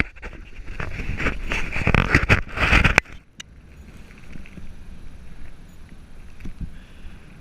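Loud, uneven rushing noise of a boat under way, cutting off abruptly about three seconds in to a much quieter steady hiss.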